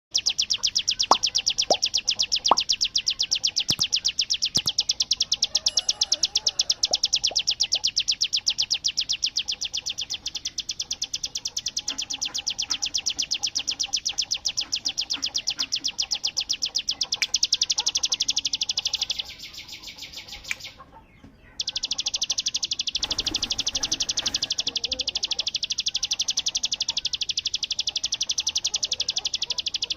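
Ciblek gunung prinia singing a long, rapid, machine-gun-like stream of high chirps, the burst style keepers call 'tembakan bren'. The song fades about 19 seconds in and breaks off briefly, then starts again at full strength.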